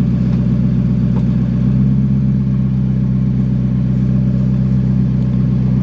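Car engine running loud at a steady speed, cutting off suddenly near the end.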